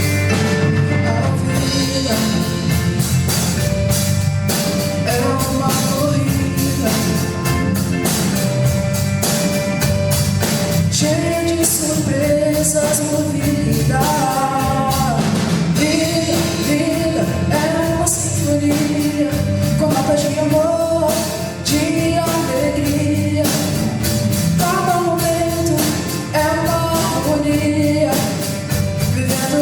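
Live band playing a song: drum kit, bass, electric guitar and keyboard. A woman's lead vocal comes in about eleven seconds in.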